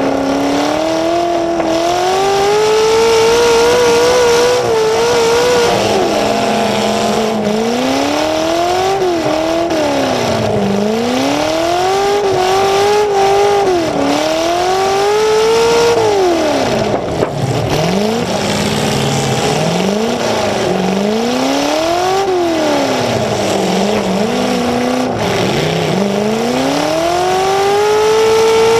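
Demolition derby car's engine, running through two short open exhaust stacks through the hood, heard from on board: it revs up and drops back over and over, a rise and fall about every two seconds, settling briefly to a low steady note in some of the dips, then climbs in one long rev near the end.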